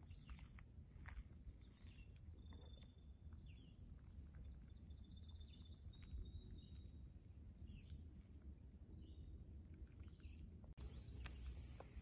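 Faint songbirds chirping, with a quick trill of short repeated high notes lasting about a second halfway through, over a low steady rumble.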